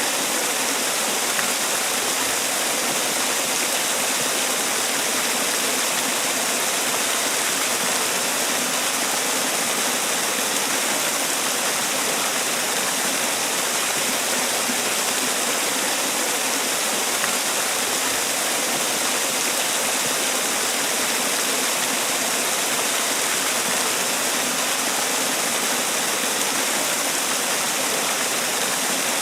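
Man-made waterfall: water falling and splashing in a steady, unbroken rush with a hissy, bright edge.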